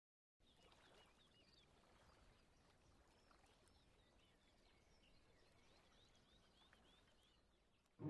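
Near silence: faint small birds chirping, many short quick chirps over a low hiss.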